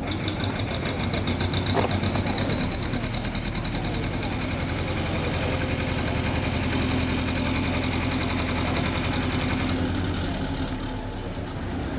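The engine of the historic working narrowboat Sculptor running at a slow, steady chug as the boat passes. It grows louder in the first couple of seconds and eases off near the end.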